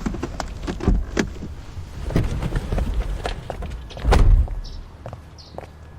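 A string of sharp clicks and knocks, then one heavy thump about four seconds in, the loudest sound here, over a steady low rumble.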